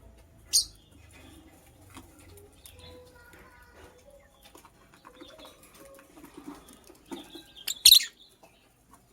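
Lovebird giving two sharp, shrill calls, a short one about half a second in and a louder one near the end, with faint soft chattering between.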